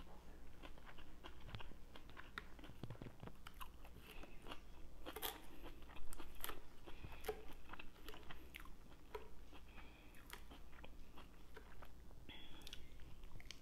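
Close-miked chewing and crunching of a lettuce and grilled-chicken salad, a steady run of small crunches, with a louder bite about six seconds in.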